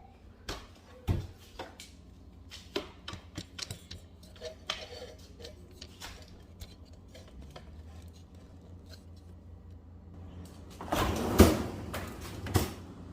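Handling noise from frozen food packages and a freezer being loaded: scattered light knocks and clicks, with a busier stretch of handling and a sharp knock about eleven seconds in.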